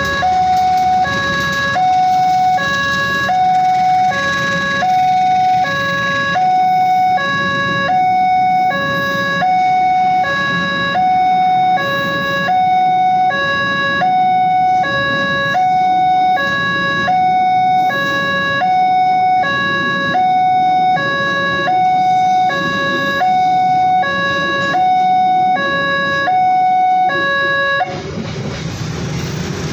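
Railway level-crossing warning alarm sounding its two alternating tones, high-low, about one change every three-quarters of a second, over a low rumble; it cuts off suddenly near the end.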